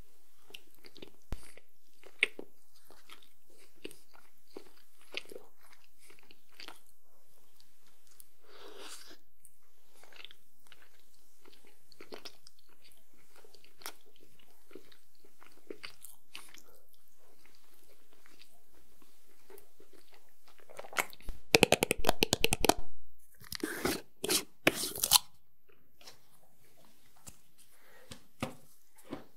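Close-miked chewing of a chocolate bar: soft crunches and wet mouth clicks in an uneven stream. About two-thirds of the way through, a louder burst of rapid crackling lasts about two seconds and is followed by a few loud handling noises.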